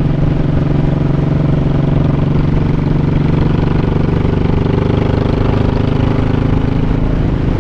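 Honda Shadow 1100's V-twin engine running steadily under way, with an even, unchanging pitch and level.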